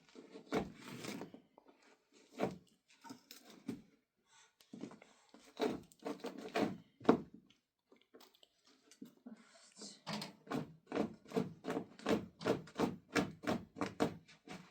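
Irregular knocks and rubbing from hand work, then from about ten seconds in a quick, even run of strokes, about four a second.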